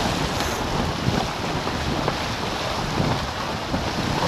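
Wind buffeting the microphone and water rushing past the hulls of a racing catamaran sailing at speed, a steady noise with a low buffeting rumble.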